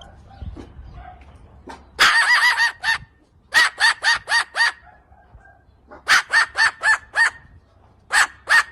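Parrot giving runs of short, sharp, high-pitched calls, four or five in quick succession per run, starting about two seconds in and repeating several times.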